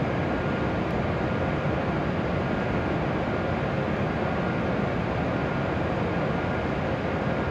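Steady rumbling hum of standing shinkansen trains' onboard equipment running, with faint steady whining tones in it and no change in level.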